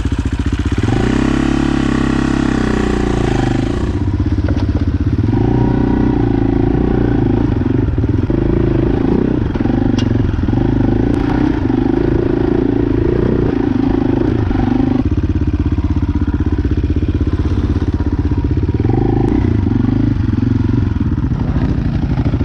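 Off-road motorcycle engine running through a hill climb on a rough trail, its pitch rising and falling with the throttle. A hiss over the engine for the first few seconds stops suddenly.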